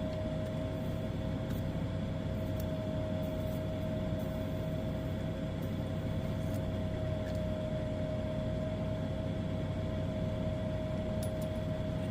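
Steady hum of a small motor or fan with a constant mid-pitched whine, and a few faint small ticks now and then.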